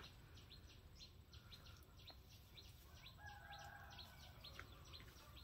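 Faint outdoor quiet with a small bird chirping repeatedly, short high chirps about three a second.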